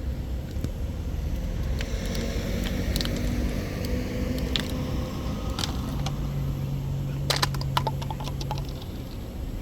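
Steady low rumble of a Boeing 737 airliner landing, with scattered sharp clicks and rattles. A steady low hum comes in about six seconds in and fades about three seconds later.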